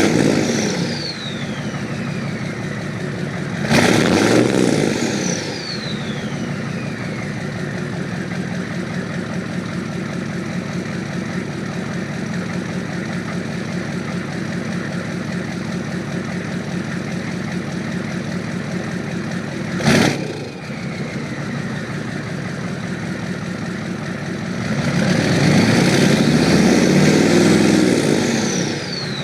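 GM 6.5-litre diesel V8 idling while still cold, revved briefly a few times and held up for several seconds near the end. A high whine falls in pitch as it settles back to idle after each rev.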